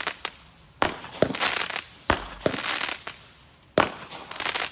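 Consumer fireworks going off: a run of sharp bangs coming roughly in pairs about every second and a half, each followed by a short hissing rush.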